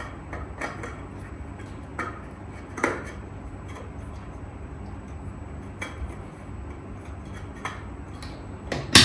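Plastic parts of a cordless handheld vacuum being handled: scattered light clicks and knocks, with one sharp, loud click near the end.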